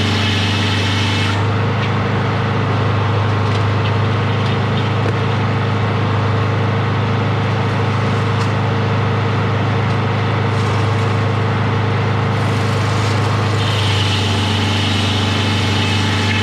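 An engine running steadily at an even speed, with a change in its tone about a second and a half in and again near the end.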